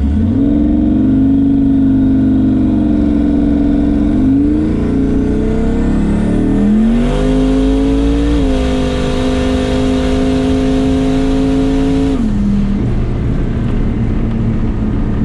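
Ruby's turbocharged engine at full throttle on a drag-strip pass, heard from inside the cabin. The engine note holds, dips and climbs in steps, runs steady, then falls away sharply about twelve seconds in.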